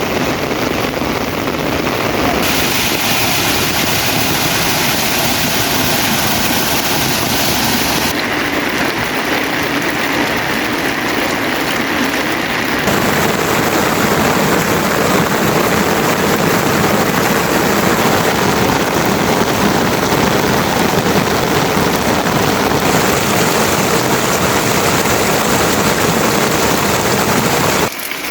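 Steady heavy rain, a loud even hiss whose tone shifts abruptly several times.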